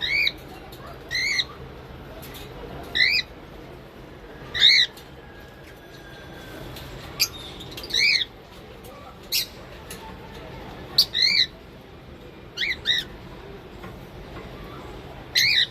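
Cockatiels giving short, repeated squawking calls, about a dozen in all, spaced a second or two apart, each with a slight warble.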